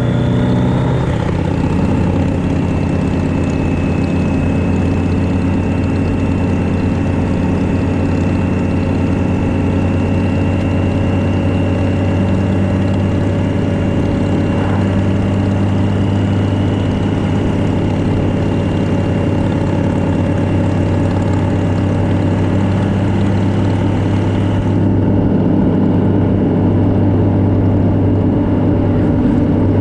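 Motorcycle engine running steadily at cruising speed, with a steady high whine over it. The engine note shifts about a second in, and the hiss over it falls away near the end.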